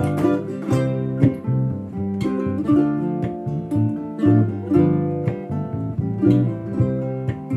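Guitar playing plucked chords in a bossa nova rhythm, an instrumental passage of a song in C major.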